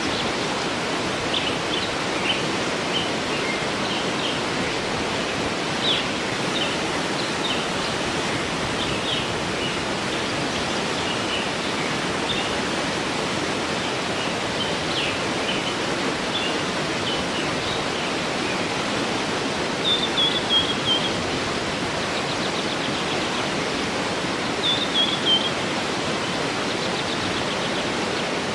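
Waterfall running steadily, with songbirds chirping over it; a short falling bird phrase comes twice in the second half.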